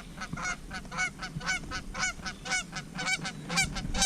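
Geese honking in a rapid run of short calls, about four to five a second.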